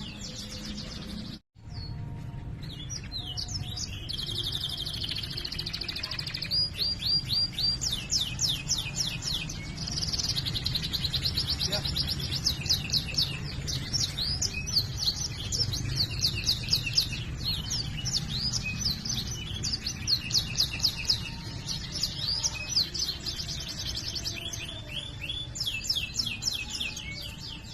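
Domestic canary singing a long, continuous song of fast rolling trills and chirps, rapid runs of high repeated notes, with a brief cut in the sound about a second and a half in.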